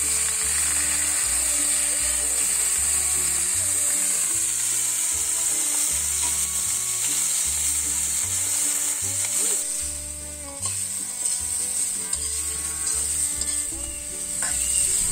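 Drumstick pods and potato pieces sizzling in hot oil in a metal wok, with a metal spatula stirring and scraping through them. The steady sizzle eases briefly about two-thirds of the way through.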